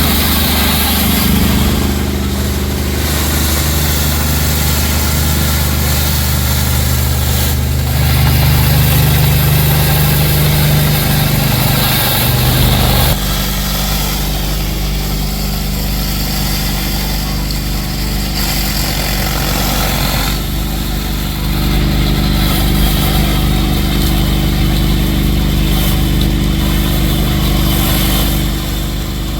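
Pressure washer engine running steadily under load, with the hiss of high-pressure water spray over it. The engine's note changes abruptly about thirteen seconds in.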